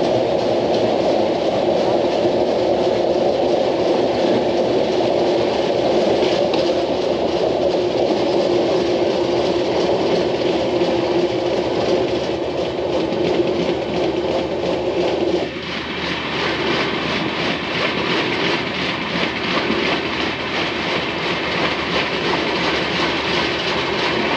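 Passenger train running at speed, heard from aboard the coach: a steady rumble and rush of wheels on rail. About two-thirds of the way through the sound changes abruptly, the deeper rumble falling away and a thinner, hissing clatter taking over.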